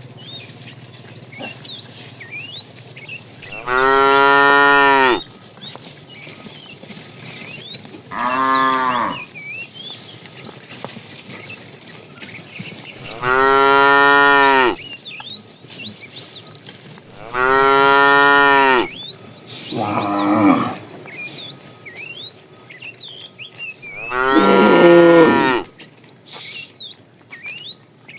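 Cattle mooing: six long, loud calls spaced a few seconds apart, each a drawn-out moo lasting about a second or more. The fifth call is shorter and rougher than the others.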